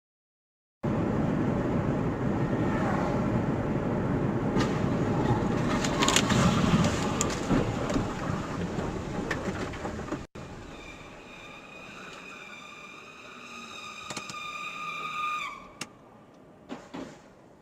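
Road noise from a moving vehicle in a dashcam clip. After a cut about ten seconds in, a steady high tone holds for about five seconds and then stops suddenly.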